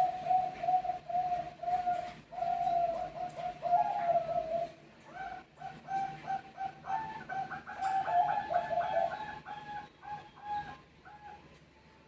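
Zebra doves (Bangkok perkutut) cooing in rapid runs of short staccato notes. A first run lasts about four seconds. After a brief pause a second run follows, with a second, higher voice overlapping it as the birds answer each other, and it stops shortly before the end.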